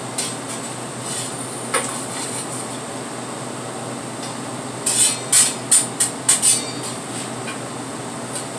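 Metal tool clanking and knocking as it stirs the wood fire inside a pizza oven, with a quick run of about six knocks about five seconds in, over a steady background hum.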